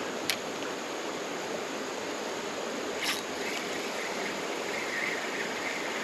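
Creek water running steadily over rocks, with two short sharp clicks, one just after the start and one about halfway, and a faint high thin tone in the second half.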